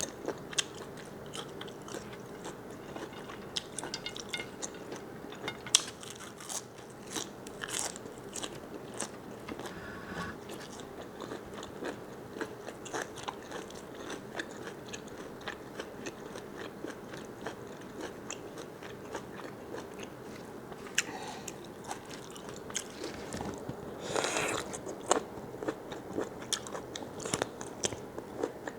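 Close-up eating sounds of a person biting and chewing large squid: many small crunches and wet clicks, with a louder run of crunching about 24 seconds in.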